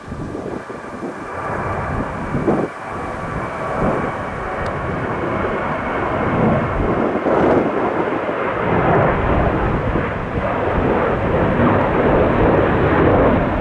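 A passenger aircraft's engines growing steadily louder as it comes closer, with gusty wind buffeting the microphone near the start.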